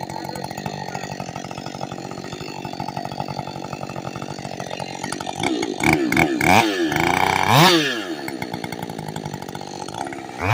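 Ported Husqvarna chainsaw idling steadily, then revved up and down several times about halfway through before dropping back to idle.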